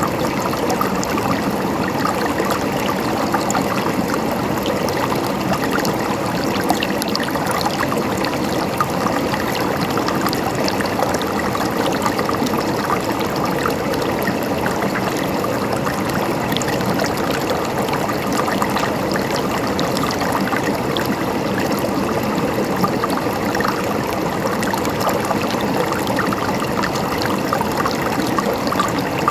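Mountain stream running over rocks, a steady gurgling and splashing.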